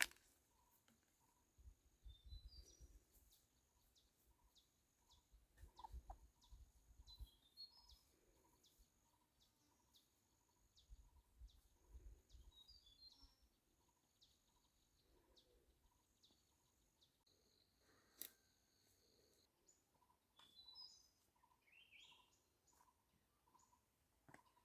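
Faint bird calls: a high thin note repeated about once a second, with short runs of rising chirps between, over a quiet background with a few low rumbles.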